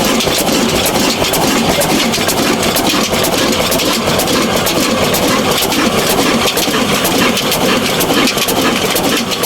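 Old diesel engine running steadily at idle with a fast, even knock.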